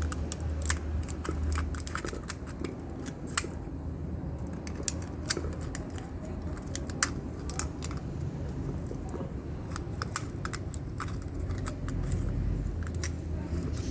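Scattered light clicks and small taps of metal parts and tools being handled while fitting motorcycle rear-wheel bearing parts, irregular and a few each second, over a low steady hum.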